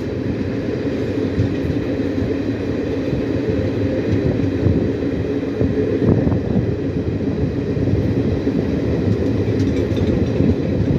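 Indian Railways train running on the track: a steady, loud low rumble of the wheels and coaches.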